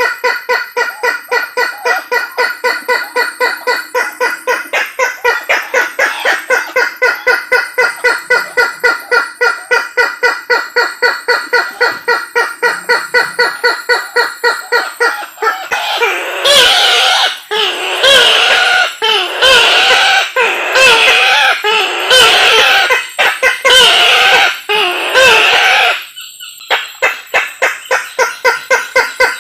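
Kareo (Sulawesi waterhen) lure call: a fast, even run of repeated notes, about four a second, for roughly the first half. Then about ten seconds of louder calls that waver up and down in pitch, roughly one a second. After a short break the fast notes start again near the end.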